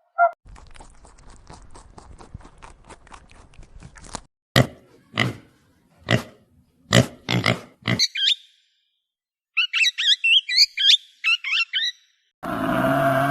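A run of animal sounds: a string of fast, faint ticks, then a series of short, loud pig grunts, then a quick run of high chirping squeals, and near the end a long, low call begins.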